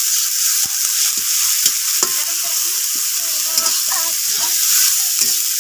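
Onions and spices frying with a steady sizzle in an iron kadai while a metal ladle stirs them, its edge clicking and scraping against the pan many times.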